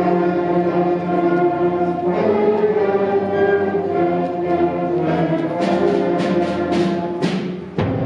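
Middle school concert band playing held brass chords, moving to a new chord about two seconds in. Sharp percussion hits join in repeatedly over the last few seconds.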